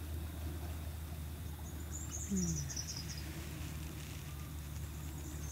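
Quiet riverside ambience: a few faint high bird chirps about two seconds in, and a short low falling note, over a steady low hum.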